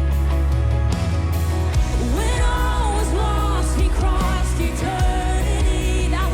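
Contemporary worship song played by a band with a steady beat and heavy bass; a sung melody comes in about two seconds in.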